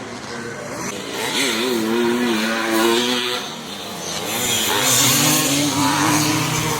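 Vintage motocross dirt bike engines racing past, the pitch rising and dropping as the riders work the throttle. A second bike's lower engine note comes in about four seconds in.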